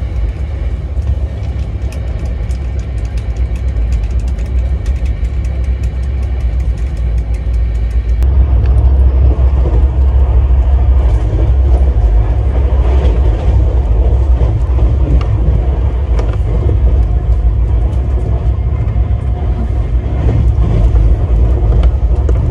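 Running noise of the Rajdhani Express heard from inside a passenger coach: a steady low rumble with light clicks from the wheels and the coach. About eight seconds in the rumble gets louder and stays so.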